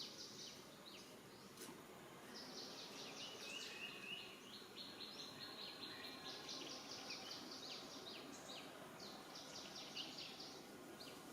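Faint outdoor background: runs of rapid, high-pitched chirps, many short notes a second, over a low even noise.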